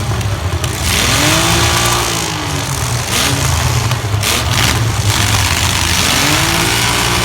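Compact pickup trucks' engines revving up and down repeatedly in a demolition derby, with a few sharp crashes of metal about three to five seconds in.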